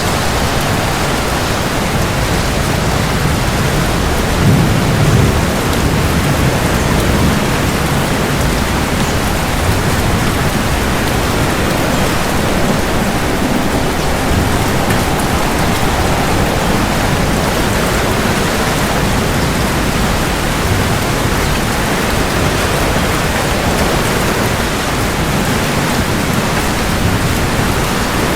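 Steady heavy rain falling, with a brief low rumble of thunder about four to five seconds in.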